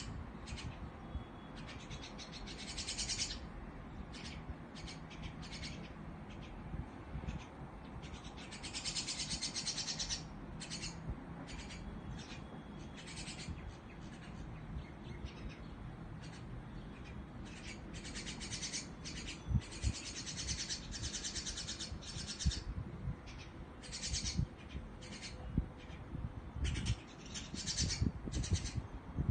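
Small birds chirping and chattering in repeated bursts of high-pitched calls, some lasting about a second, over a low background rumble with a few dull thumps in the second half.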